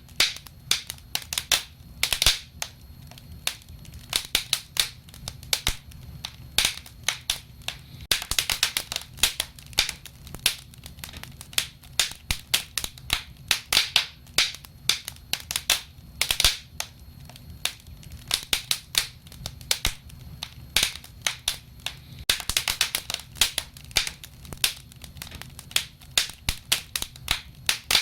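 Wood fire crackling: many irregular sharp pops, some coming in quick flurries, over a steady low background.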